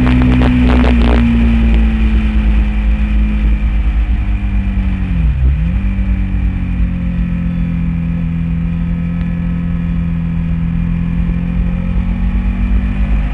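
Honda VTR1000 SP1's 90-degree V-twin engine under way, heard from a camera mounted on the bike. The engine note sinks slowly over the first few seconds, dips sharply and picks straight back up about five seconds in, then holds steady through a long leaned-over corner.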